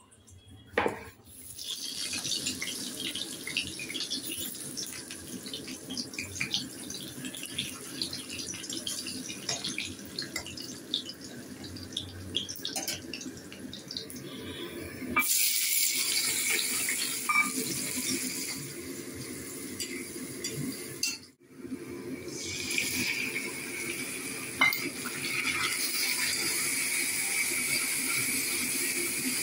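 Potato pieces deep-frying in hot oil in a wok: a steady sizzle with scattered crackles that grows louder about halfway through. After a brief break, sliced onions frying in oil with a loud sizzle.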